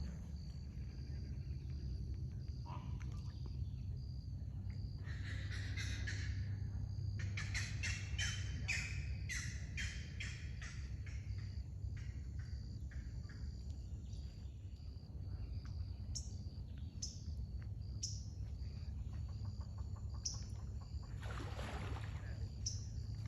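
Wild birds calling: a harsh, scratchy call, then a run of quick chirps, and later short high chirps about once a second, with another harsh call near the end. A steady low rumble runs underneath.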